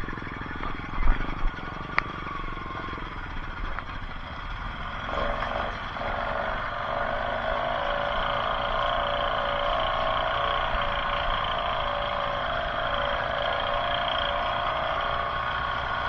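An off-road vehicle's engine running at a steady speed, with a few knocks in the first couple of seconds. The drone settles into an even, unchanging note about six seconds in and holds there.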